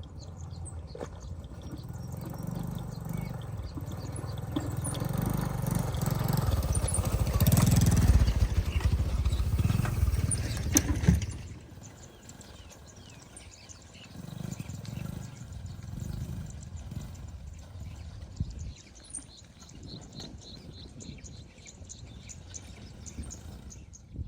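A small engine running, growing louder over about eight seconds and stopping suddenly about eleven seconds in, followed by faint bird chirps.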